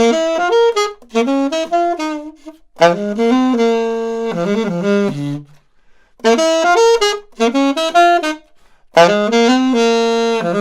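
Unaccompanied saxophone playing jazz phrases: four short melodic runs with brief breaths between them.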